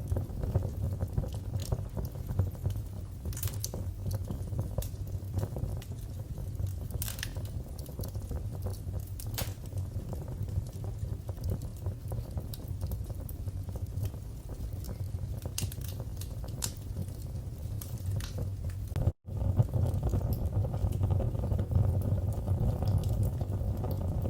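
Wood fire burning in a fireplace: a steady low rumble of flames with scattered sharp crackles and pops. The sound cuts out for a split second about 19 seconds in, then carries on a little fuller.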